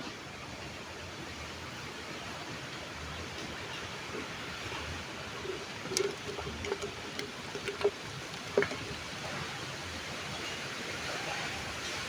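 Steady rush of flowing stream water, with a few sharp clicks and knocks in the middle.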